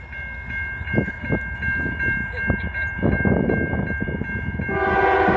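Railroad crossing bell ringing in a rapid, even rhythm as the crossing gates go down, then the approaching CN freight locomotive's horn sounds loudly near the end.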